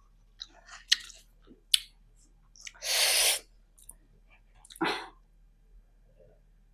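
Close-miked mouth sounds of eating: a few sharp wet clicks and smacks, then a loud breathy rush of air about three seconds in and a shorter one near five seconds. After that it is quiet.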